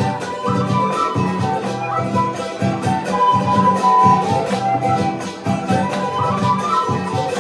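Andean folk music played live: a melody line over steady, rhythmic strummed strings.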